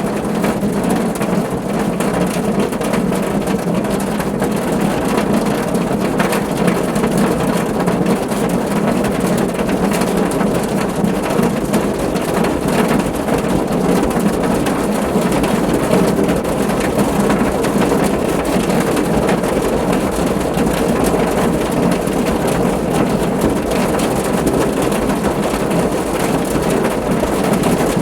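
Steady rain drumming on a car's roof and body, a dense patter of drops with a low, hollow rumble.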